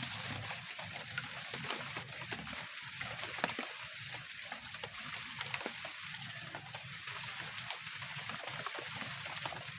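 Light rain falling in a drizzle: a steady hiss dotted with many small ticks of drops.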